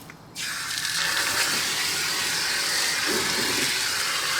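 Spray of water hitting the brake caliper and rotor, a steady hiss that starts suddenly about a third of a second in.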